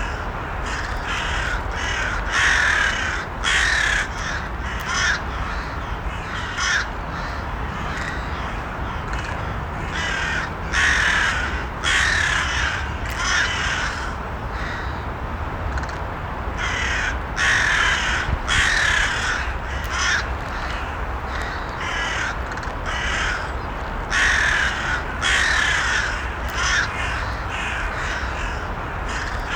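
Crows cawing over and over, short harsh calls in quick runs of two to four, over a steady low background hum.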